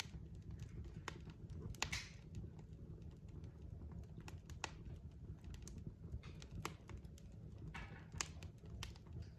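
Wood fire of burning logs in a fireplace crackling, with irregular sharp pops and snaps over a steady low rumble of the flames, and brief hisses about two seconds in and near the end.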